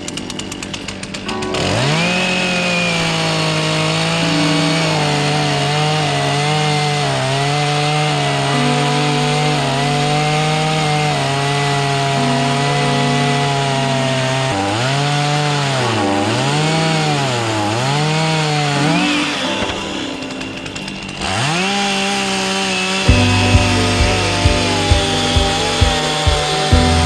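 Two-stroke chainsaw revving up and running at high speed, its pitch dipping and recovering several times as it bogs in the wood, then easing off briefly before revving up again. Background music with a steady beat joins in near the end.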